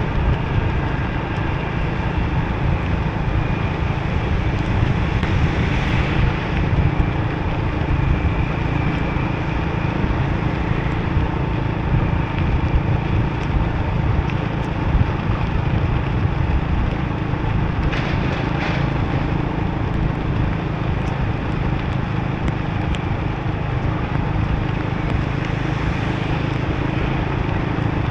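Riding a motorbike in the rain: steady wind rush on the microphone mixed with engine and wet-tyre noise, with a brief louder hiss about eighteen seconds in.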